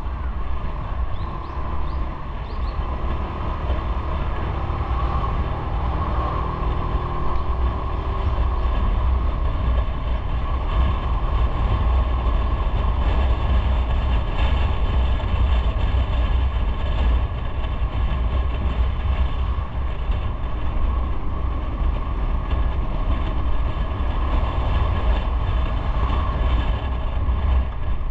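Motorcycle running under way with heavy wind and road rumble on the microphone, steady and growing a little louder about ten seconds in.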